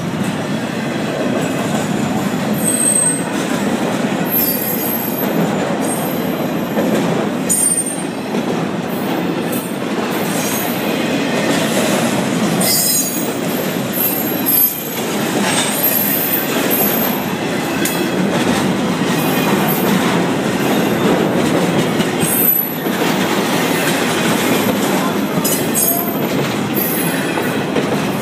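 A train's cars rolling past close by: a steady loud rumble of wheels on the rails, with short high-pitched wheel squeals coming and going throughout.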